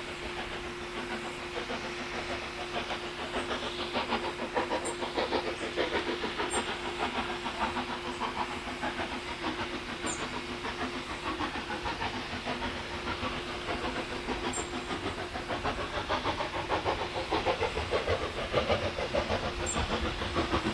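Steam locomotive working, with a rapid, even beat of exhaust chuffs that swells louder twice.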